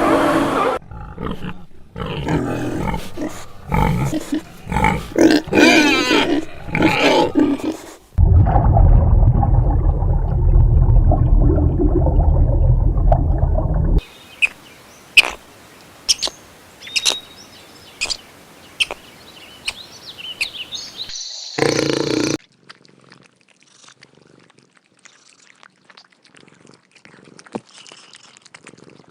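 Big cat growling and roaring in loud, broken calls for the first eight seconds, followed by a steady low rumble for about six seconds. Then come scattered faint clicks and ticks, with one short louder burst near the end of that part.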